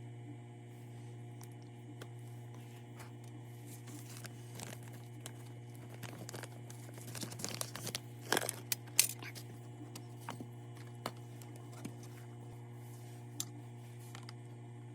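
Small clicks, crinkling and tearing sounds of hand work with parts or packaging, thickest and loudest in the middle, over a steady low hum.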